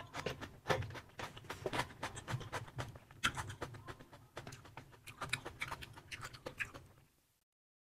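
Close-miked chewing with the mouth closed: a string of soft wet clicks and smacks, several a second, that stops about seven seconds in.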